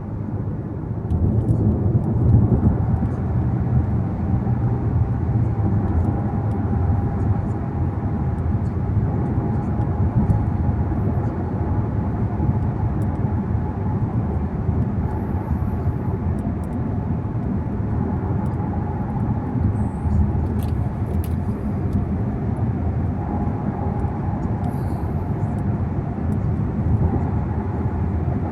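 Car driving along a road: a steady low rumble of tyres and engine. A few faint high ticks come about two-thirds of the way through.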